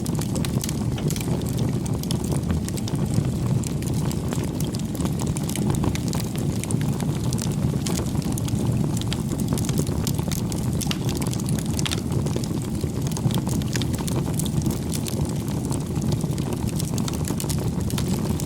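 Wood fire burning, with irregular sharp crackles and pops over a steady low rushing noise.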